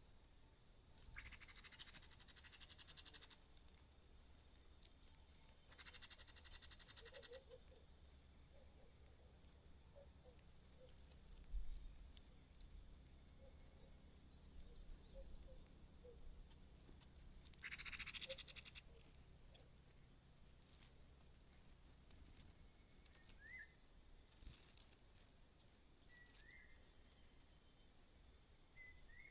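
Faint calls of young birds: many brief high chirps, with four raspy, hissing calls of a second or two each.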